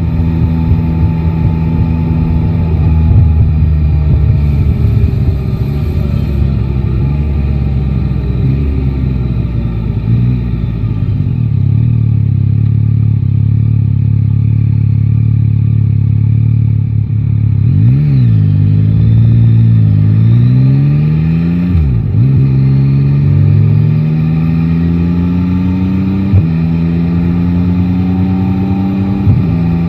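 Motorcycle's three-cylinder engine, heard from the rider's seat: it slows with falling pitch for about ten seconds, then runs steadily. Near the middle the revs swing up and down a few times in quick succession, then the bike accelerates through the gears, the pitch climbing and dropping back at each upshift.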